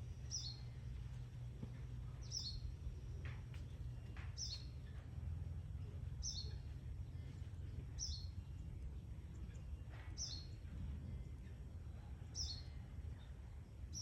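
A bird's short, high two-note chirp, repeated regularly about every two seconds, over a steady low rumble of background noise.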